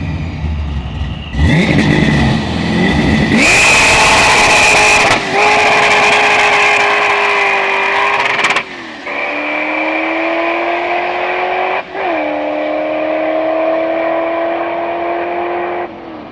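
A drag car launching hard from the line about a second and a half in, then pulling down the strip at full throttle with a high whine over the engine. The engine note climbs slowly through each gear and drops at three upshifts before fading near the end.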